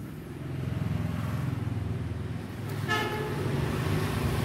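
A passing motor vehicle's engine running with a low rumble, and a short horn toot about three seconds in.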